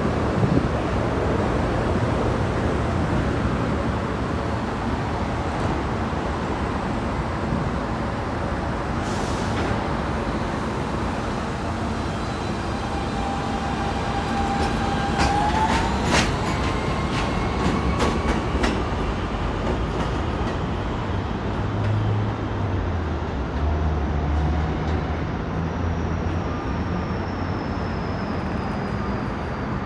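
New York City subway train running, heard from inside the car: a steady rumble of wheels on track, with a cluster of sharp clicks and a brief rising wheel squeal about halfway through.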